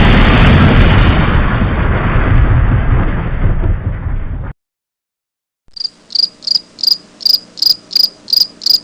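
Stock explosion sound effect: a loud rumbling blast fading away, cut off after about four and a half seconds. After a second of silence, a stock cricket sound effect follows, high chirps repeating about three times a second.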